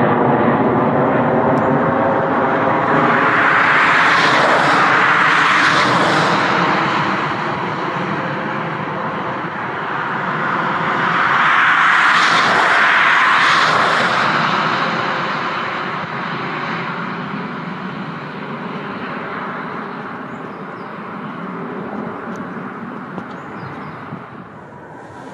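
Jet airliner engines at close range: a steady roar with a whine of engine tones, swelling loudest twice, about four seconds in and again about twelve seconds in, then slowly fading away.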